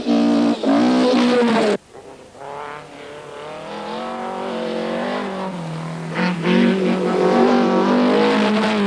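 Rally car engines running hard: a loud engine cuts off abruptly just under two seconds in, then another car's engine comes in quieter and grows steadily louder as it approaches, its pitch rising and falling.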